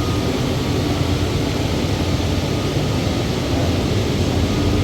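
A steady low drone of a running engine or motor, with a constant hum and no breaks.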